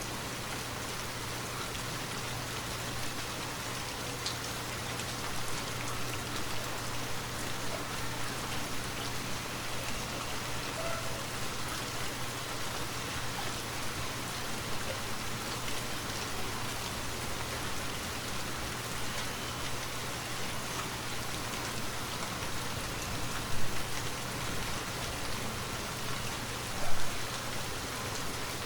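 Steady rainfall pattering on a forest canopy. Two brief, louder thumps come near the end.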